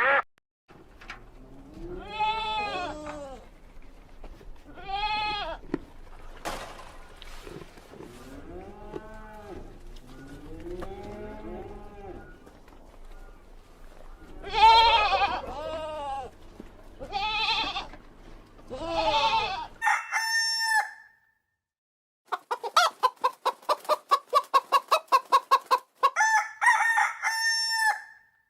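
Chickens calling with a rooster crowing in a series of arching calls. Then, after a short break, a hen clucks rapidly at several pulses a second, with a few drawn-out cackles near the end.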